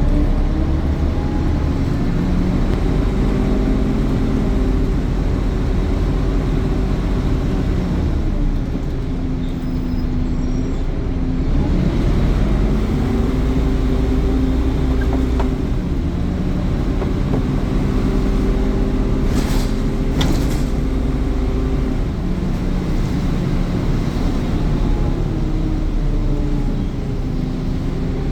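Scania N230UD double-decker bus engine heard from on board as the bus drives: the engine note rises, holds, then drops back and rises again several times. Two short hissing bursts come about two-thirds of the way in.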